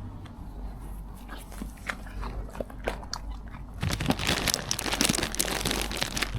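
An animal crunching and chewing food it has just been offered: scattered crunches at first, then a dense run of crunching for about two seconds near the end.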